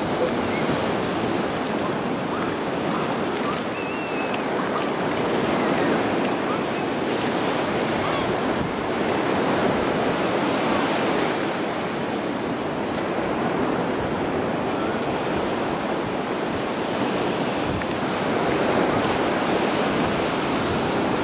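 Sea surf washing onto the shore, with wind buffeting the microphone. The wash of the waves swells and eases slowly.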